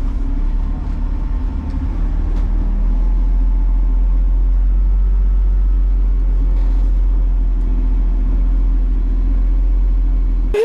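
BMW race car engine running steadily, a deep, even low drone with no revving up or down.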